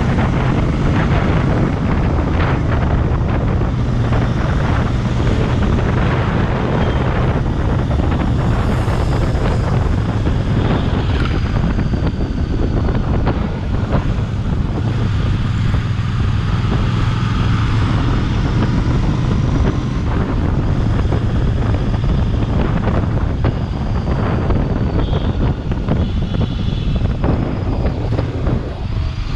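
Royal Enfield Bear 650's 648 cc parallel-twin engine running at a steady cruise, heard from the bike, with heavy wind noise buffeting the microphone.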